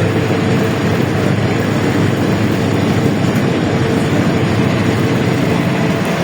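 LiAZ-677M bus on the move, heard from inside the cabin: a loud, steady drone of engine and road noise with a faint constant hum, unchanging throughout.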